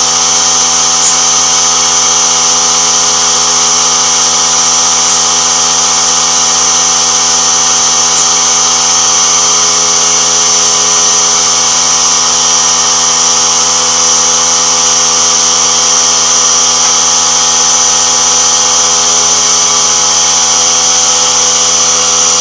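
Small air compressor running steadily while inflating a tubeless motorcycle tire to seat its beads, with a high whine over the motor; it cuts off abruptly at the end.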